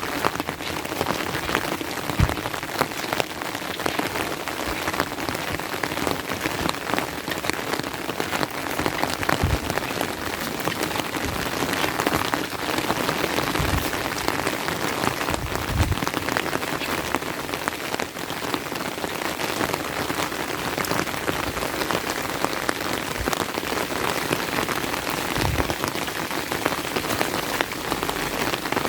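Steady rain falling, a dense patter of drops throughout, with a few soft low thumps scattered through it.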